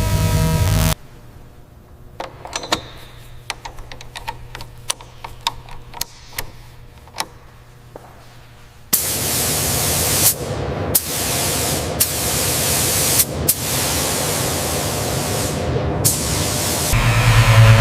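Scattered sharp clicks and taps, then a loud hissing spray in several long blasts broken by short pauses.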